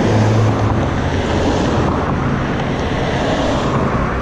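Road traffic at an intersection: a steady rush of vehicles with a low engine hum, mixed with wind noise on the microphone.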